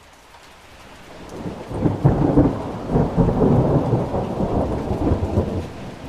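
Thunder rolling over steady rain. The rumble builds over the first two seconds, is loudest and crackling from about two to five and a half seconds in, then eases.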